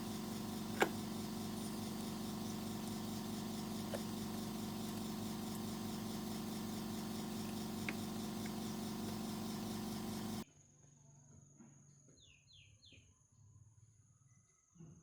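A steady mechanical hum with a few sharp ticks stops abruptly about ten seconds in. It is followed by quiet with faint clicks and a few short high chirps.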